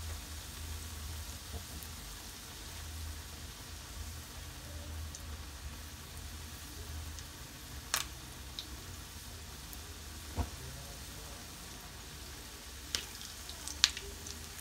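Beef shami kababs shallow-frying in hot oil in a small pan: a steady sizzle with a few sharp pops, two of them near the end.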